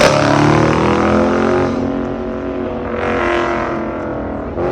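Car engine revving hard, with a steady drone of engine notes throughout.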